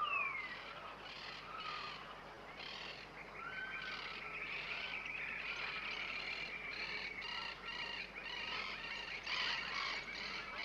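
Several birds calling together: sharp falling whistles at the start, then a busy run of quick repeated notes and trills.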